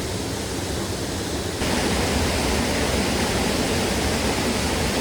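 Steady rush of a mountain stream mixed with heavy rain, a constant even hiss that gets slightly louder about a second and a half in.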